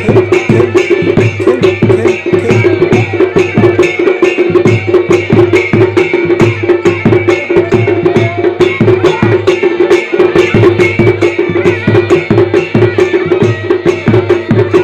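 Kumaoni dhol and damau drums playing a fast, driving folk dance rhythm, with a steady held pipe tone sounding over the drumming.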